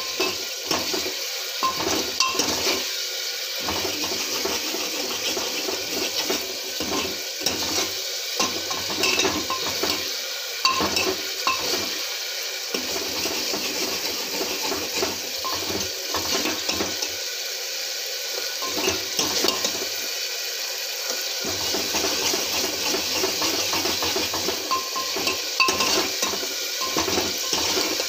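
Chopped capsicum sizzling as it fries in a pan, with a metal spoon or spatula scraping and clinking against the pan as it is stirred.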